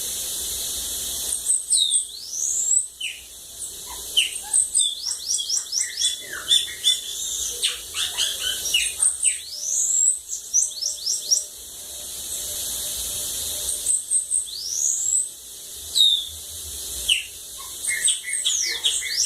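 Bananaquit (sibite) singing: phrases of quick, high sweeping notes and rapid trills, repeated with short pauses between them.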